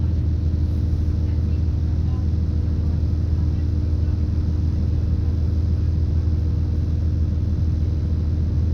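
Steady low rumble heard inside a British Rail Class 170 Turbostar diesel multiple unit, from its underfloor 13.6-litre MTU turbo diesel and running gear, with a steady hum over it and no change in pitch.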